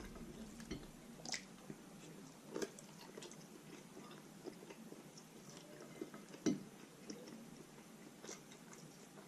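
A person chewing food close to the microphone, with scattered soft mouth clicks and two louder bites, one about two and a half seconds in and one about six and a half seconds in.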